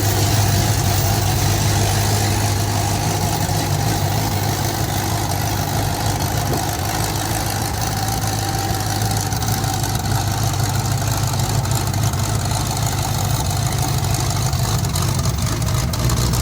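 Twin-turbocharged Ford Coyote 5.0-litre V8 in a 1964 Ford F100 idling steadily on its first start.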